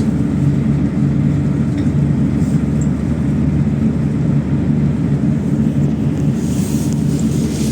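PAZ-32054 bus's V8 petrol engine running steadily while the bus drives, a constant engine hum heard from on board. A rushing hiss comes in about six seconds in.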